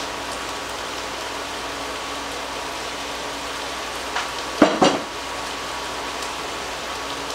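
Vegetables and garlic sizzling steadily in a pot over high heat, a constant frying hiss with a faint steady hum under it. About four and a half seconds in comes a brief loud clatter.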